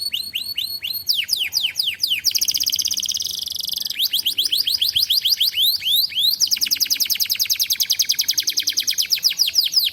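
Domestic canary singing in fast tours of repeated, falling chirps. Each tour gives way to the next every second or two, including two very rapid buzzy trills, one about two seconds in and a longer one near the end.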